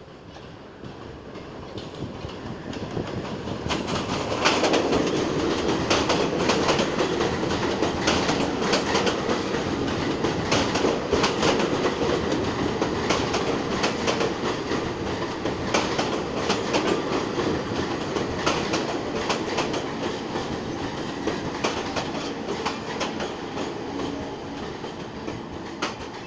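New York City Subway R46 train entering a station. Its rumble builds over the first few seconds, then runs on loud with wheels clicking over rail joints, easing off slowly as the train slows.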